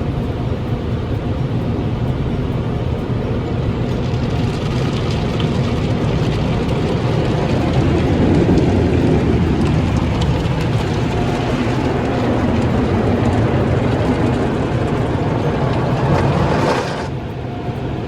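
Automatic car wash tunnel equipment running around a vehicle: a steady, loud rushing and rumbling that grows brighter about four seconds in and cuts off suddenly near the end.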